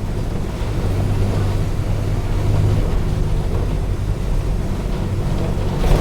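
Mercedes-Benz OF-1722M bus's six-cylinder diesel engine running with a steady low drone. A short hiss comes right at the end.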